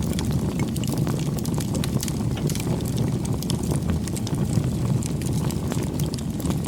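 Wood bonfire burning: a steady low rumble with frequent small crackles and pops.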